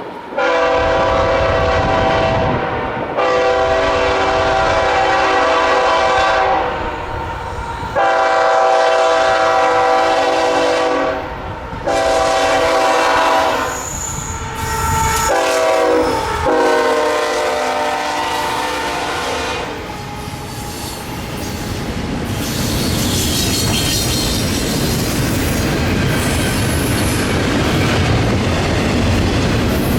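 A diesel freight locomotive's air horn sounding a series of chords, several long blasts and a few shorter ones, over the first twenty seconds or so. Then the train rolls by with steady wheel noise on the rails and a faint high squeal of wheels.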